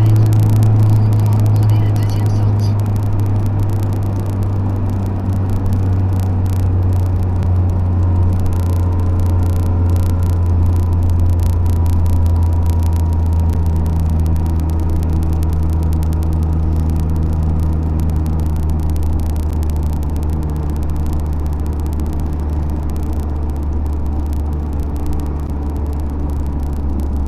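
A car being driven: a steady, loud, low engine and road drone, easing slightly lower in pitch a few seconds in and then holding steady.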